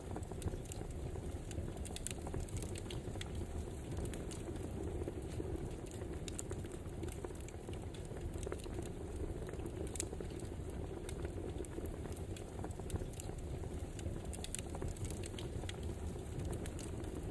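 Wood fire burning: a steady low rush with frequent, irregular crackles and pops.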